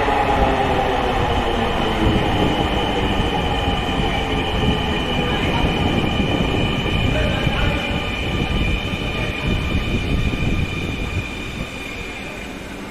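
Dhaka Metro Line 6 electric train pulling in and braking. Its motor whine falls in pitch at the start, then a steady high squeal and rumble carry on, getting gradually quieter as it slows to a stop.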